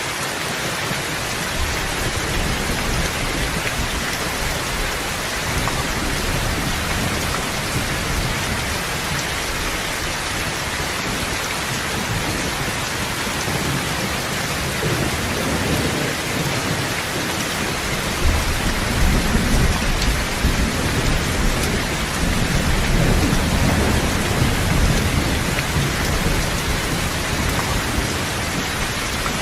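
Steady rain hiss, with a low rumble of thunder swelling about two-thirds of the way through and then easing.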